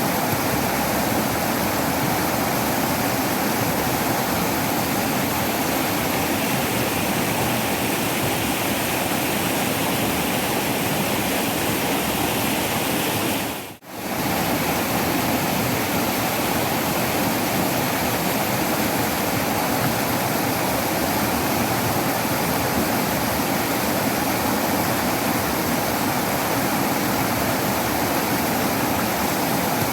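Waterfall rushing in a steady, dense roar of falling water. About halfway through it fades out for a split second and comes straight back.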